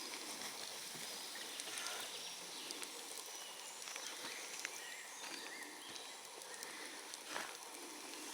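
Faint outdoor forest ambience with a few faint high chirps and scattered small clicks and rustles.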